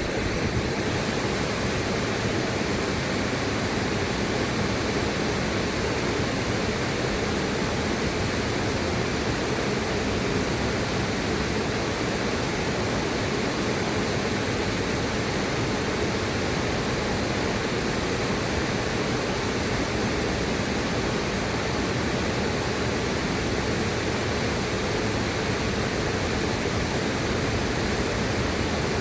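River water rushing steadily, an even unbroken hiss spread across low and high pitches alike.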